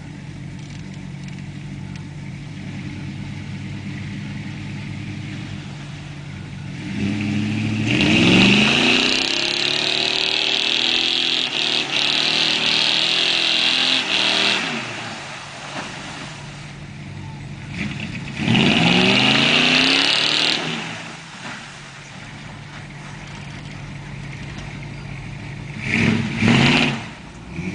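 Pickup truck engine idling, then revving hard twice, each rev rising in pitch with a loud hiss lasting several seconds, and two short revs near the end.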